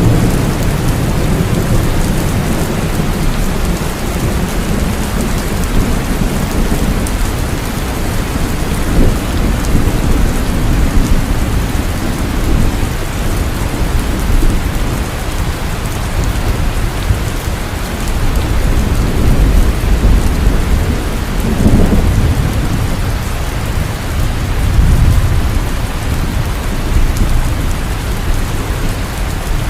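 Heavy rain falling steadily, with a deep low rumble of thunder that swells and fades several times.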